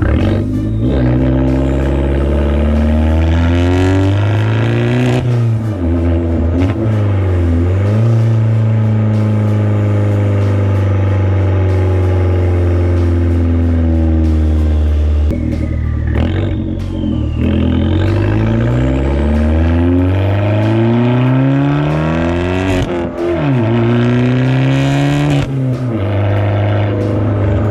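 Abarth 500's turbocharged 1.4-litre four-cylinder through a catless downpipe and catless cat-back exhaust, accelerating through the gears: the engine note climbs, drops back at each upshift, holds steady for several seconds in the middle, then climbs through more upshifts. Loud throughout.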